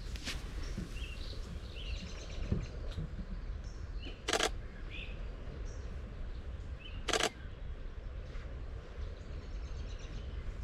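Camera shutter firing in two short rapid bursts, about three seconds apart, while small birds chirp faintly and a low rumble runs underneath.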